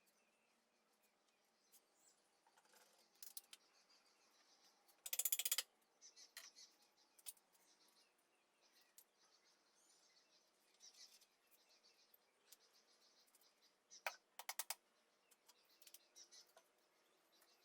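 Short runs of rapid metallic clicking, like a ratchet wrench being worked, about five seconds in and again near fourteen seconds, with scattered single tool clicks. Faint bird chirps sound between them.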